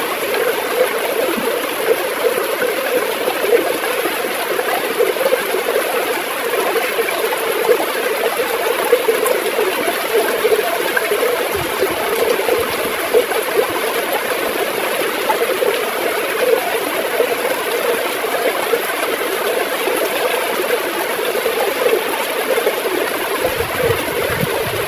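River water flowing and gurgling steadily, with a dense, unbroken rushing at an even level.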